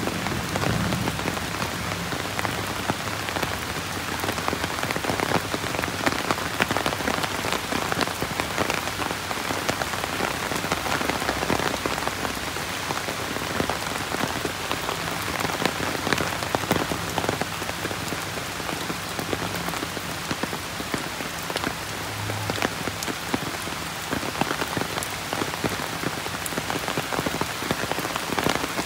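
Steady rain falling on hard surfaces: a constant hiss with many separate drop hits.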